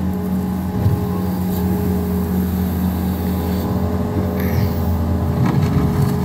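New Holland L230 skid steer's diesel engine running steadily at working speed, with a few short knocks from the machine as it works.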